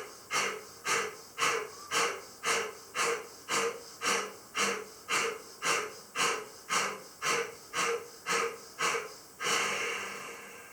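Kapalabhati breathing: short, forceful exhalations pushed out through the nose by snapping the belly in, in an even rhythm of about two a second. Near the end the pumping stops and one longer, drawn-out breath follows and fades.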